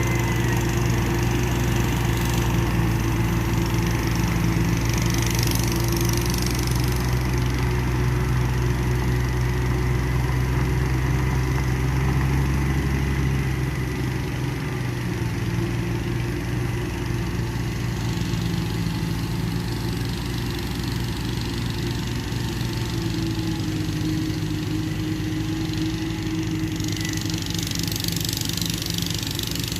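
Kubota tractor engine running steadily, its deepest rumble easing a little about halfway through.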